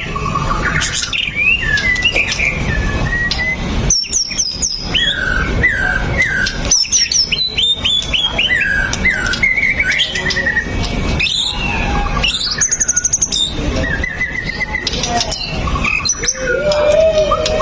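White-rumped shama (murai batu) singing a long, varied song of rich sliding whistles and short phrases, with a fast high trill about two-thirds of the way through.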